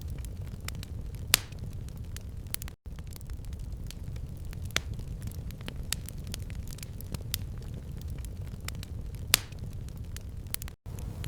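Fire crackling in a stone fireplace: irregular sharp pops and snaps over a steady low rumble, with a couple of louder pops. Twice the sound cuts out for an instant.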